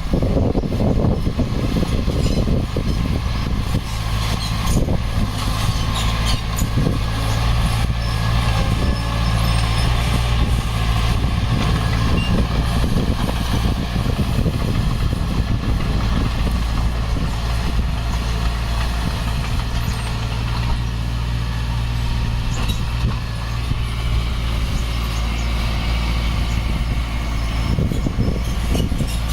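Heavy earthmoving machinery's diesel engine running steadily under load, with scattered metallic knocks and clanks over it.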